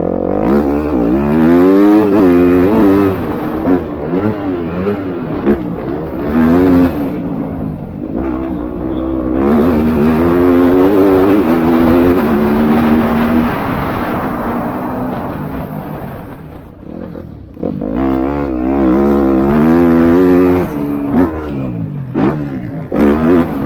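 MX2-class motocross bikes racing past, their engines revving up and down through the gears as they accelerate and shut off. The sound swells and fades as bikes come and go, dropping away about two-thirds of the way through before more bikes arrive.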